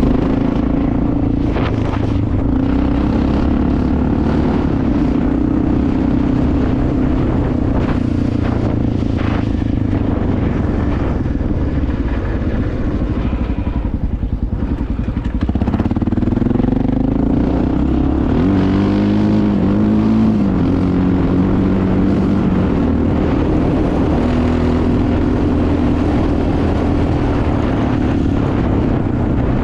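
Honda XR650L single-cylinder four-stroke engine running while the bike is ridden, revs rising and falling with the throttle. Around 14 s it drops off briefly, then picks back up, with quick rev swings around 18 to 21 s.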